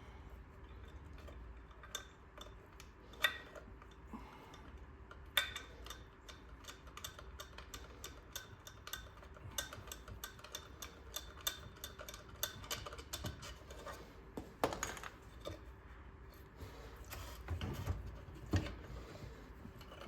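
Hand tools and small metal engine parts clicking and clinking during a small-engine teardown, with a few sharper metal knocks along the way.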